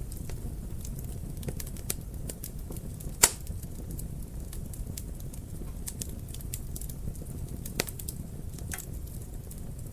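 Wood fire crackling in a fireplace: irregular sharp snaps and pops over a low steady rumble of the flames, with one loud pop about three seconds in and a couple more near the end.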